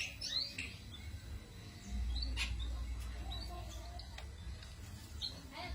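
A cito bird calling: short high chirps and slurred twittering notes, spaced irregularly, over a low steady rumble that comes in about two seconds in.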